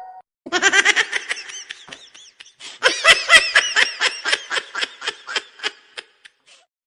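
A goofy meme laughter sound effect: two bouts of rapid, high-pitched laughing, the second longer and tailing off near the end.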